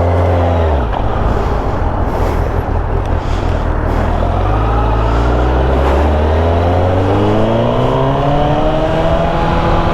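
Sport motorcycle engine heard from the rider's seat over steady wind rush: the revs drop just as it begins, hold for a few seconds, then climb slowly as the bike accelerates through the second half.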